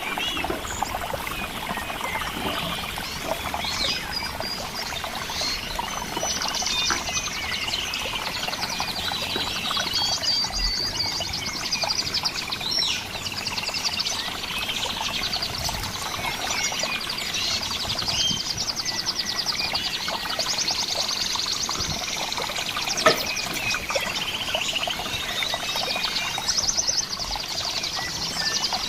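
Crickets chirping: high, rapidly pulsed trills that come in spells of a second or two, repeated again and again over a steady natural background with bird-like chirps. A single sharp click about 23 seconds in.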